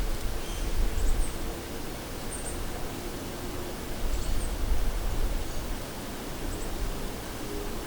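Steady outdoor noise hiss with a gusty low rumble, like wind on the microphone. A few faint, short, high bird chirps come through now and then.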